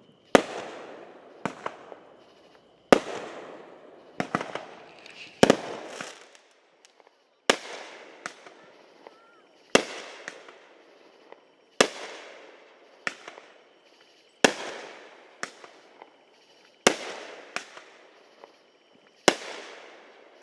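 Fireworks going off in a steady series: a loud bang about every two to two and a half seconds, each trailing off over a second or so, with smaller pops in between.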